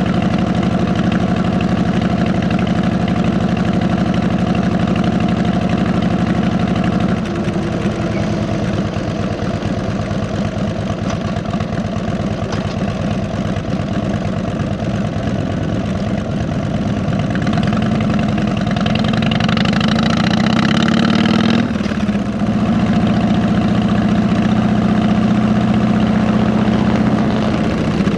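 Harley-Davidson Electra Glide Ultra Classic V-twin running through 33-inch fishtail mufflers under way. The engine note drops about seven seconds in, climbs in pitch under acceleration near the end, dips briefly at a gear change, then settles into a steady run.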